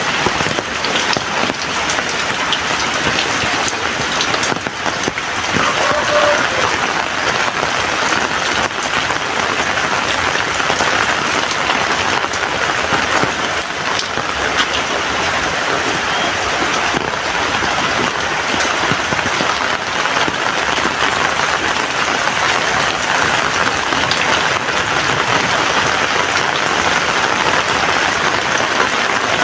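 Heavy rain falling steadily, a dense, even patter of drops hitting surfaces.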